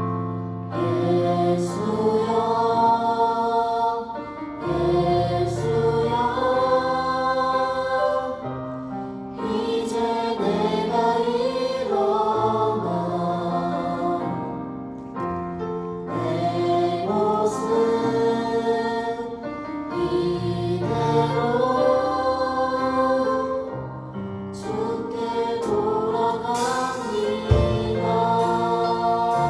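A choir singing a slow gospel praise song in phrases, over sustained low accompaniment.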